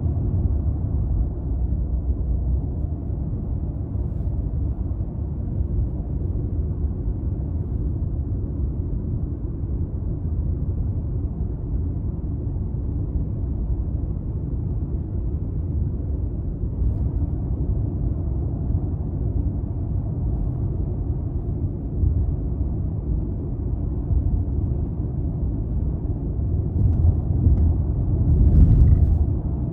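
Toyota Crown Athlete (200 series) with its 2.5-litre V6 cruising at highway speed: a steady low rumble of engine and road noise, heard from inside the car. Near the end the rumble swells louder for a couple of seconds.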